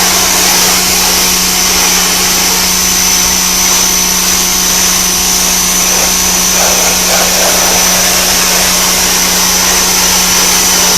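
Greenworks 1500 PSI electric pressure washer running steadily, its motor and pump humming under the hiss of the water jet blasting a wooden fence plank.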